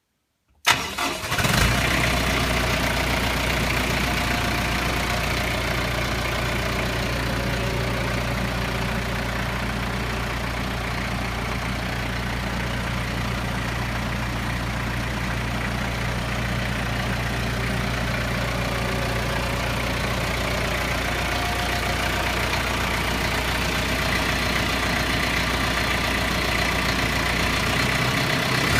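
Kubota MZ655 tractor's turbocharged diesel engine starting: it catches within about a second, briefly uneven, then settles into a steady idle.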